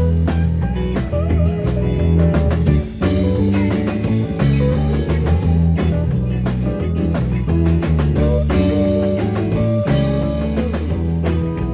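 Rock band playing an instrumental passage: guitar over bass and drums, without vocals.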